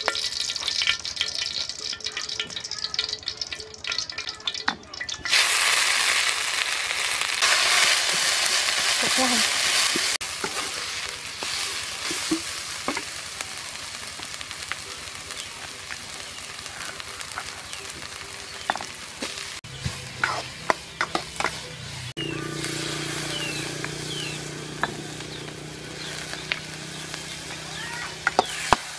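Food frying in hot oil in a wok, breaking into a loud sizzle about five seconds in, then stir-fried with a metal spatula that scrapes and clacks against the wok. A low steady hum comes in about two-thirds of the way through.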